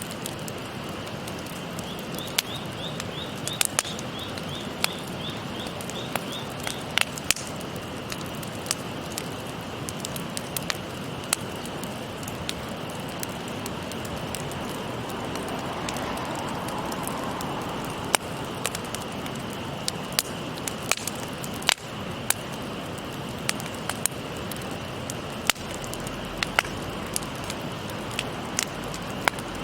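Wood campfire crackling, with frequent sharp pops scattered irregularly, over the steady rush of a babbling river. A short, rapid high trill sounds about two seconds in.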